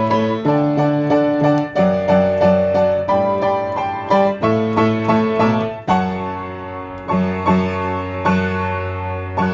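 Piano playing a slow ballad: a melody of struck notes over held bass notes. The notes thin out and the playing gets a little softer about six seconds in.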